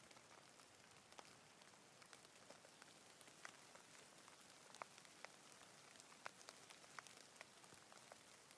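Faint steady rain: an even hiss with individual raindrops ticking sharply a few times a second.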